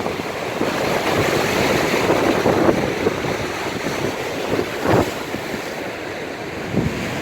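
Storm waves breaking and washing on the shore, with strong wind buffeting the microphone; a brief louder surge about five seconds in.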